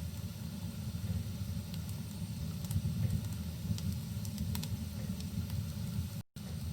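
Fireplace fire burning with a steady low rumble and scattered sharp crackles, over a faint hiss of rain. The sound cuts out completely for a moment near the end.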